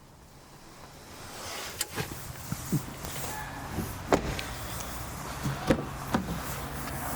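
A steady whir builds up about a second in, with about six sharp clicks and knocks over it, typical of a car's electric motor running while its controls or fittings are worked.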